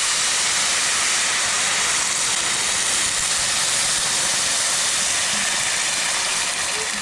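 Pot of rice frying in oil and garlic over a campfire, giving a loud, steady sizzling hiss of steam that eases slightly near the end.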